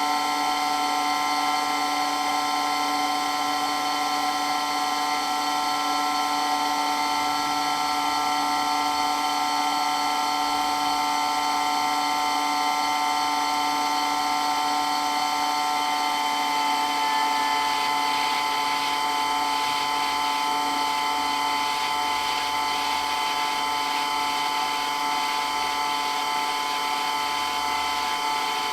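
Water pump for a water blaster running steadily, a continuous mechanical whine made of several high tones over a motor hum.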